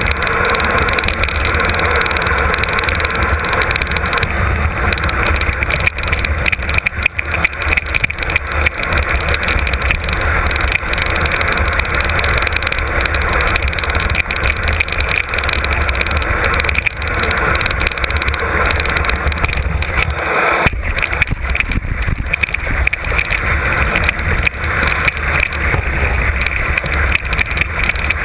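Wind rushing over the on-board camera's microphone and a mountain bike rattling over a rough trail on a fast downhill run, a steady loud rumble and hiss broken by many small knocks from the frame and chain.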